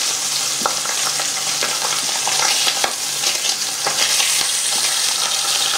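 Beef burgers and meat frying in hot oil in a metal frying pan: a steady crackling sizzle with scattered sharp clicks and pops.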